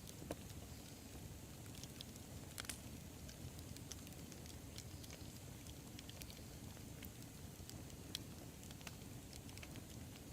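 Wood bonfire burning: a steady low rumble with scattered sharp crackles and pops, including a small burst of pops about two and a half seconds in.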